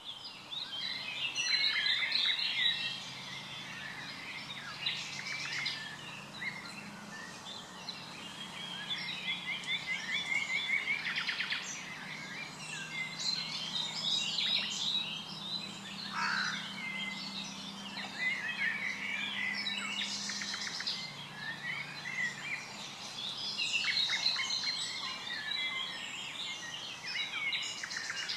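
Several songbirds singing at once, a dense chorus of overlapping chirps, trills and whistles. A faint steady low hum lies underneath for most of the time.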